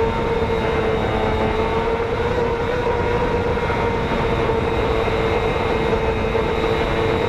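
Racing motorcycle engine held flat out at a steady high pitch over heavy wind and road rush.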